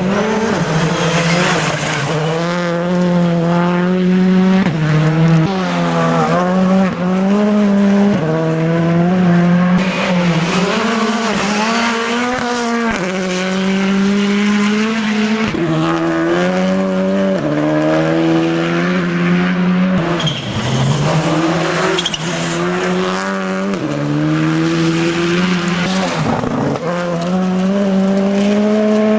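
Rally car engine at full throttle on a gravel stage, its pitch climbing and dropping back every second or two as it shifts gears and lifts for corners, with tyre and gravel noise underneath.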